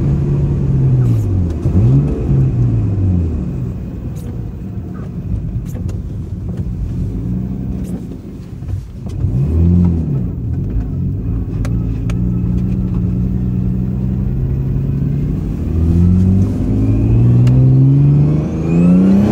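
1989 Nissan Laurel's RB20DET turbocharged straight-six, heard from inside the cabin, revving up under acceleration and dropping in pitch between gear changes of its 5-speed manual. It holds a steady cruise for a few seconds and climbs again near the end.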